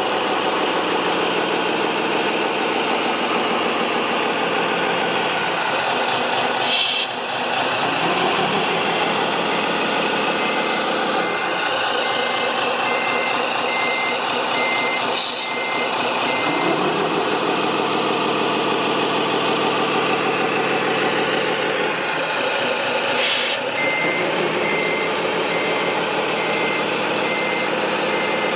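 Heavy truck or construction-machine engine running and changing pitch several times, with a reversing alarm beeping about once a second during two stretches. Three short hisses come about eight seconds apart.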